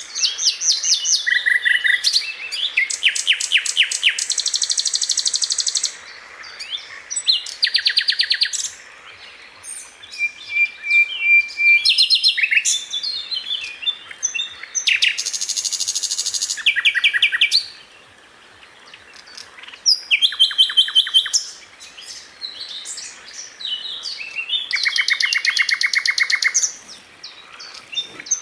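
Sikatan londo (a flycatcher) singing repeated song phrases, each a second or two long and separated by short pauses. The phrases are very fast, high trills and chattering runs, with a few brief steady whistled notes between them.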